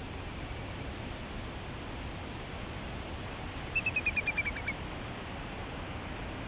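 Steady roar of the Goðafoss waterfall. About halfway through, a bird calls a quick run of about nine short notes that fall slightly in pitch and last under a second.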